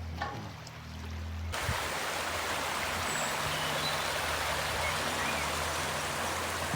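Babbling brook: running water giving a steady rushing hiss that cuts in suddenly about a second and a half in, over a low hum before it, with a few faint bird chirps.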